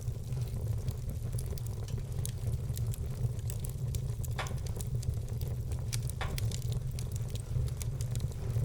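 Wood fire crackling, with scattered small snaps and a couple of louder pops, over a steady low rumble.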